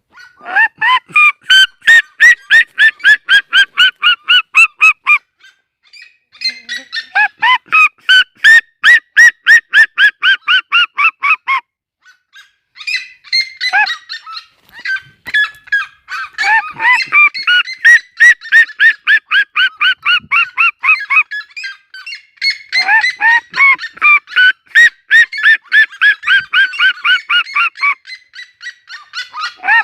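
Red-legged seriema yelping calls: loud series of notes, about four a second, each dropping in pitch, in bouts lasting several seconds, with two series overlapping around the middle.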